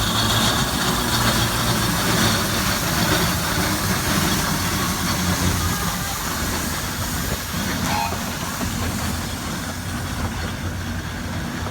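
Steam traction engine running steadily, a low mechanical drone under a constant hiss of steam.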